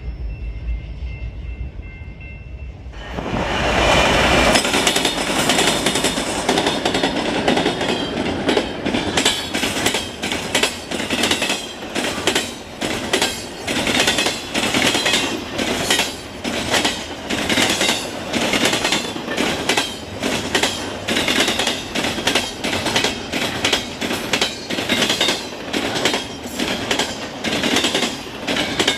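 Train passing close by over a railway diamond crossing. About three seconds in it arrives suddenly and loudly, then its wheels bang over the crossing's gaps in a steady, rapid clatter, a few knocks a second.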